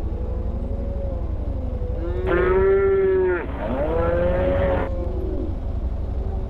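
Cattle mooing, several calls one after another, the loudest about two seconds in, over a steady low rumble.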